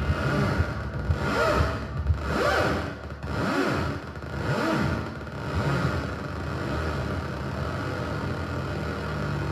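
Synthesizer drone overlaid with a harsh ripping saw-wave synth that sweeps up and down about once a second, then settles into a steadier drone for the last few seconds.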